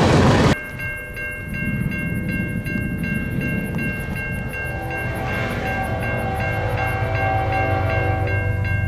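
Passing-train noise cuts off about half a second in. Then a grade-crossing bell rings steadily in even pulses, and from about five seconds in a locomotive horn sounds over a low engine rumble that slowly grows louder.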